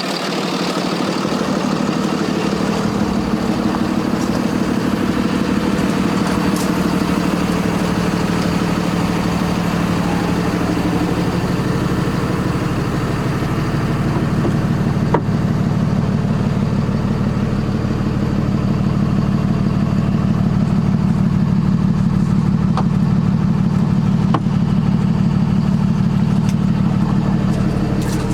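Cummins 6.7L ISB six-cylinder diesel in a Freightliner M2 dump truck idling steadily, growing somewhat louder about halfway through.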